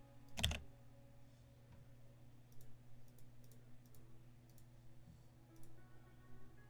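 Light clicking: one sharp click about half a second in, then a scattered run of faint short clicks, over a steady low hum.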